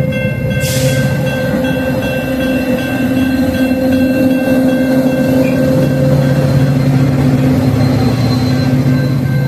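Train running, a loud steady drone with a sustained low hum and a few steady higher tones. A short hiss comes in about a second in.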